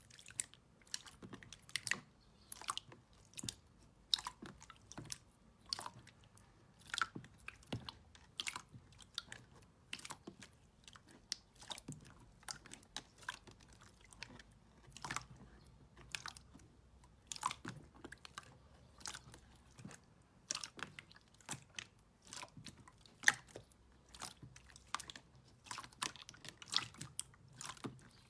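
Slime being worked, giving irregular crisp crackles and pops, a few a second.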